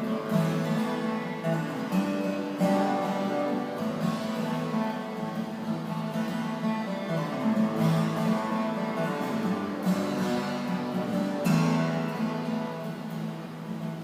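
Acoustic guitar played solo, an instrumental introduction to a traditional folk song with repeated struck chords and ringing notes, before the singing comes in.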